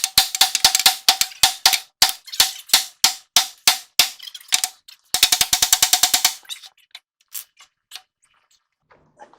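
Hammer blows on the steel steering arm to shock a tapered tie rod end stud loose. Sharp, ringing metal-on-metal strikes come about three a second, then a fast flurry of strikes about five seconds in, then a few scattered lighter taps.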